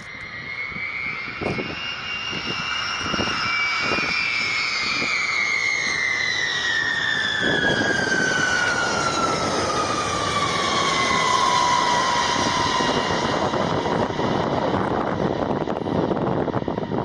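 Jet aircraft flying past. A high engine whine rises slightly, then falls steadily in pitch over several seconds as the aircraft passes. A loud jet roar builds from about halfway through and holds, with a few dull knocks in the first few seconds.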